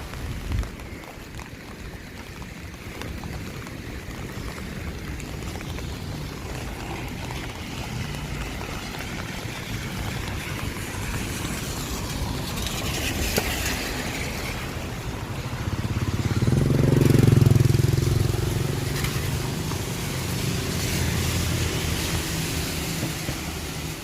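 Steady hiss of rain and traffic on wet city streets. About two-thirds of the way through, a motor vehicle's engine swells and fades as it passes, the loudest sound here.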